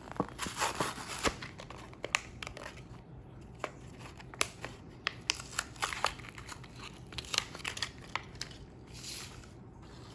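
Hot Wheels diecast car packaging being opened by hand: plastic blister and card crinkling and tearing, with many sharp clicks and snaps of the plastic.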